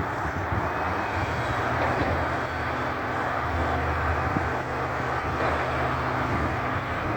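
Front-loader garbage truck's diesel engine running steadily, with a low engine hum and a dense mechanical noise over it.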